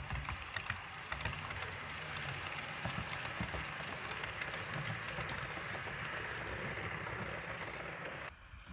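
Model train running along the layout's track: a steady rolling rush with a low rumble and a rapid patter of small clicks from the wheels, which drops away abruptly near the end.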